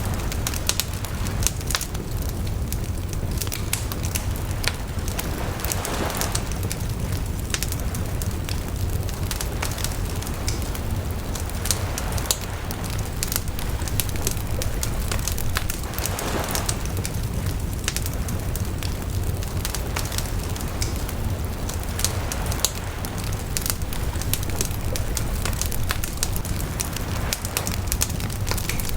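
Wood bonfire burning, with frequent sharp crackles and pops over a steady low rumble.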